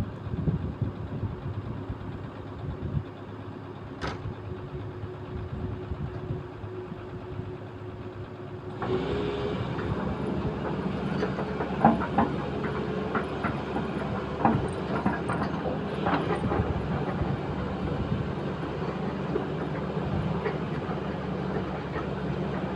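Excavator diesel engine running steadily, becoming suddenly louder about nine seconds in, with scattered short knocks over the following several seconds.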